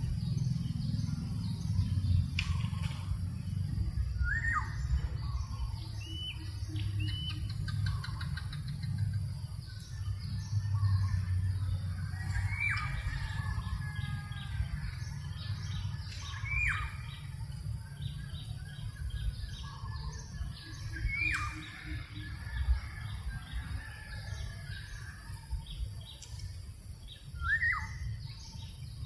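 Wind rumbling on the microphone, with birds calling. One bird repeats a short call that rises and then drops sharply, about every four to five seconds, over the high twittering of other birds.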